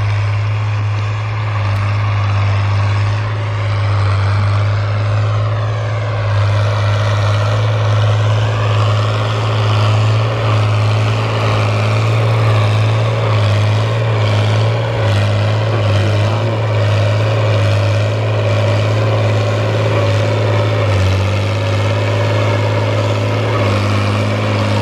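Fiat 1000 DT tractor's diesel engine running steadily under load while plowing, a constant low drone.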